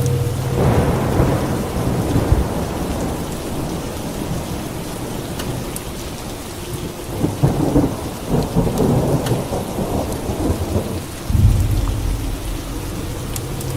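Steady rain with rolling thunder: a rumble about half a second in, a longer crackling rumble from about seven to eleven seconds, and a sudden low boom near the end.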